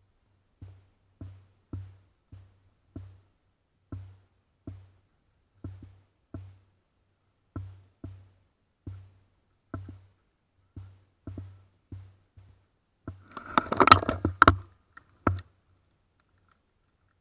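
An uneven series of dull thumps, each with a click, about one to two a second, then a louder clattering run of knocks about thirteen seconds in that stops near the end.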